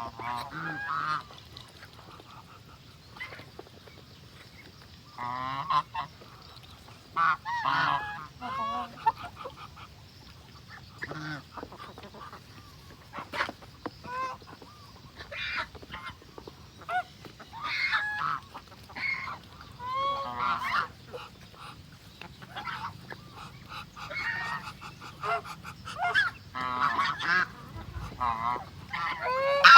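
Geese honking, many short calls in irregular bursts, loudest near the end.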